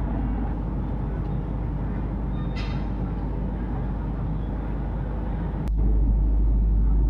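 Indian Railways express train at a station platform, a steady low rumble of the train moving, with a short hiss of air about two and a half seconds in. Near the end there is a sharp click, and the rumble turns suddenly louder.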